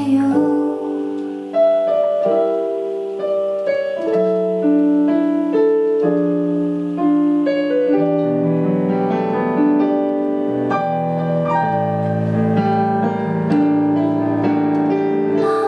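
Instrumental break of a slow ballad played on piano: a steady flow of held notes and chords, with no singing.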